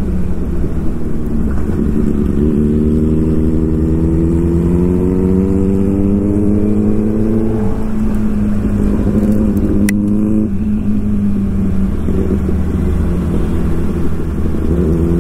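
Suzuki Hayabusa's inline-four engine accelerating, its pitch climbing slowly, dropping about eight seconds in with an upshift, then climbing again, easing off a little later and picking up once more near the end. A single sharp click about ten seconds in.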